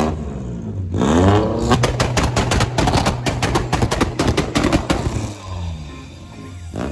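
A car engine revved hard about a second in, with a rapid run of exhaust pops and crackles lasting several seconds, then easing back down.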